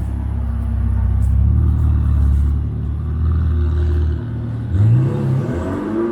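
A car engine runs with a steady, deep, low note, then revs rise in a climbing pitch about three-quarters of the way through, as the car accelerates.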